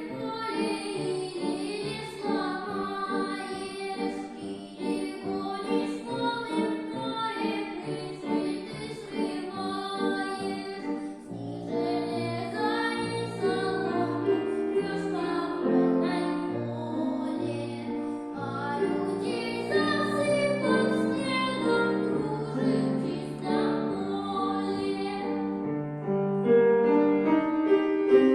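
A boy's high singing voice performing a Russian classical romance with piano accompaniment. Near the end the voice stops and the piano plays on, louder.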